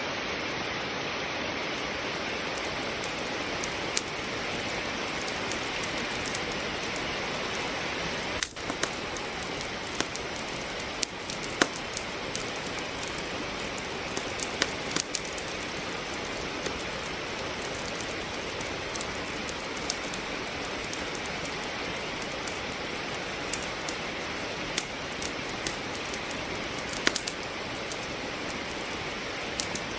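Steady hiss of rain falling, with sharp, irregular crackles and pops from wood logs burning in a fireplace, scattered throughout.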